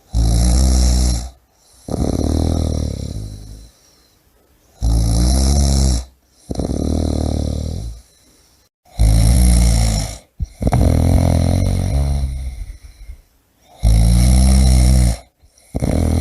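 A person snoring deeply and rhythmically, about one breath every four seconds. Each breath is a short, loud, rumbling rasp followed by a longer, slightly softer one.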